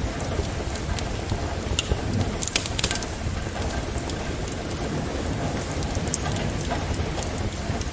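Steady rain falling, mixed with a wood fire in a fireplace crackling and popping, with a quick cluster of pops about two and a half seconds in.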